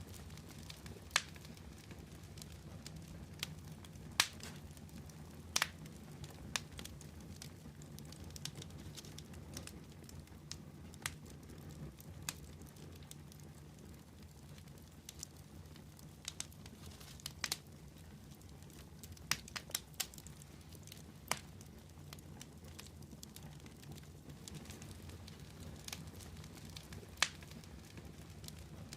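Wood fire burning with a steady low rumble, broken by sharp, irregular crackles and pops every second or so.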